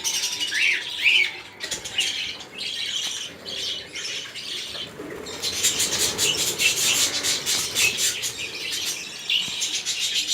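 Small birds calling: a few short rising chirps in the first second or so, then from about halfway a dense, rapid flutter of high chirping.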